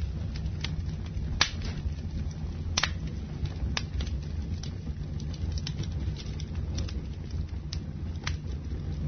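Campfire burning: a steady low rumble of flames with scattered sharp crackles and pops, a few louder snaps standing out.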